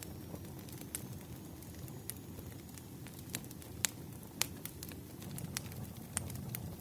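Firewood burning with a steady low rumble and scattered sharp crackles and pops, two of them louder near the middle.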